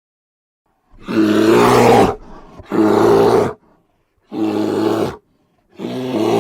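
An animal gives four deep, harsh roaring calls, each about a second long, with short gaps between them.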